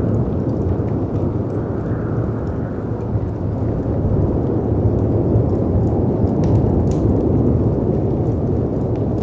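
Layered storm ambience: wind and surf make a steady, deep rushing rumble that swells slightly about two seconds in. Faint crackles and pops of a wood fire sound over it, a couple a little sharper past the middle.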